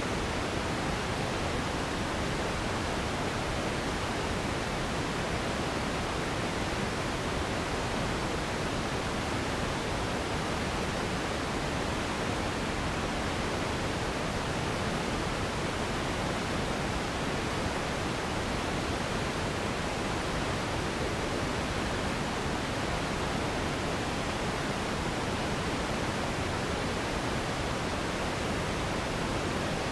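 Steady pink noise: an even, unchanging hiss weighted toward the low end.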